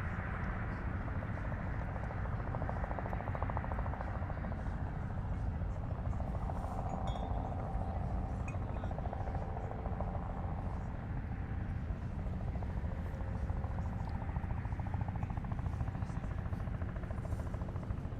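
Helicopter over the harbour, a steady low rumble with a fast pulsing rotor chop that comes and goes.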